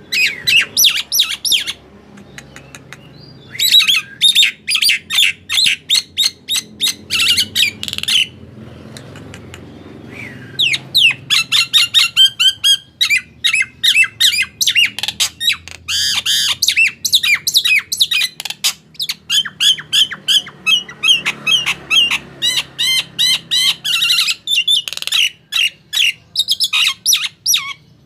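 A male jalak nias, a songbird of the starling and myna family, calling in fast runs of short, shrill chirps and squawks. It breaks off briefly near 2 s and again for about two seconds around 8 to 10 s. This is the bird's lively, full-voiced singing that keepers play to lure and tutor other birds.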